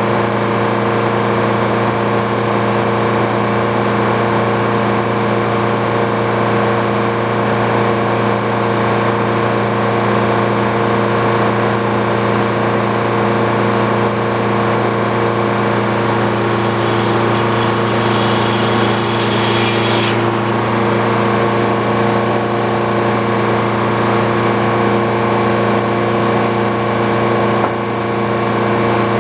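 The engine powering an old Frick sawmill runs steadily at a constant speed. A faint high whine joins it briefly about two-thirds of the way through.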